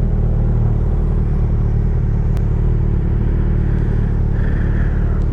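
Kawasaki Z900's inline-four engine running at a steady pitch while riding along, with road and wind noise under it.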